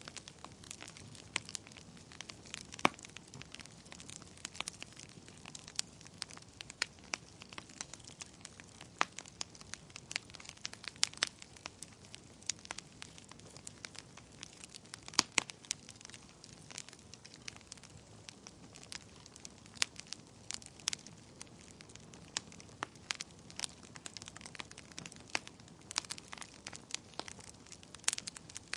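Wood fire crackling in a fireplace: irregular sharp pops and snaps over a soft steady hiss, a few of them much louder than the rest.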